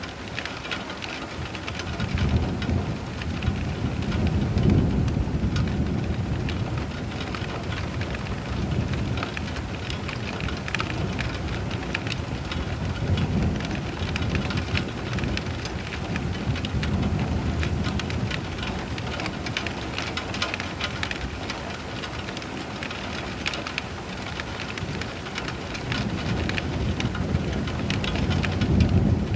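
Steady rain falling, thick with the clicks of individual drops, while low thunder rumbles up several times, most strongly a few seconds in and again near the end.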